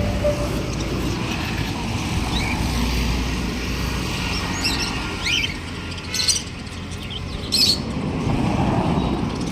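Small cage birds chirping in short, scattered calls, with two sharper chirps in the second half, over a low steady rumble like traffic or a fan.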